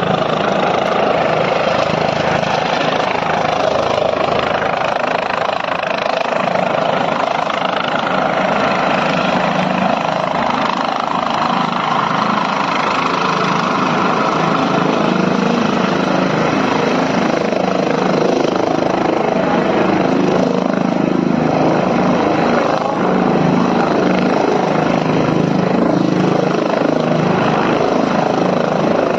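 Helicopter's turbine engine and rotor running loud and steady as it comes in to land.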